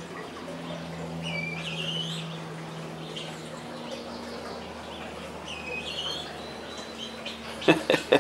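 Bird chirping: a few short, high, rising calls in small groups, over a steady low hum.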